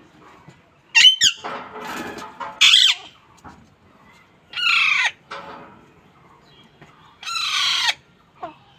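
Green parrot squawking: a quick run of harsh calls a second to three seconds in, then single longer calls about five and eight seconds in, each sliding down in pitch.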